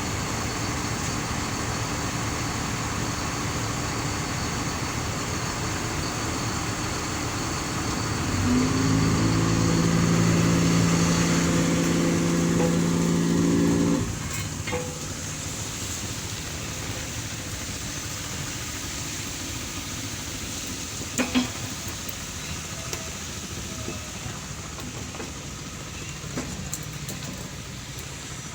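A ship's horn sounding one long blast of about five seconds, starting about a third of the way in and cutting off abruptly, over a steady rumbling noise; a couple of sharp knocks follow later.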